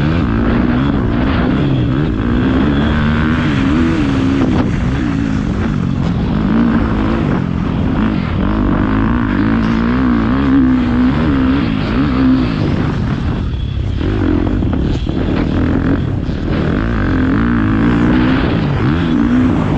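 Motocross dirt bike engine being ridden hard, its pitch rising and falling continuously as the throttle opens and closes, with a brief drop about two-thirds of the way through.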